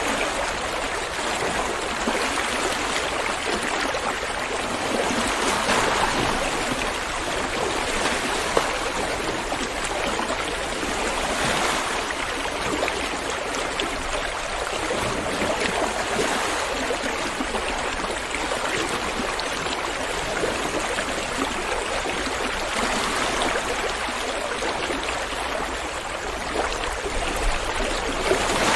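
River water running and gurgling over stones, a steady rushing flow with gentle swells.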